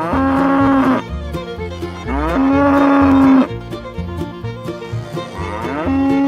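Cow mooing three times, each a long call of about a second that swoops up at its start, over background music with a steady beat.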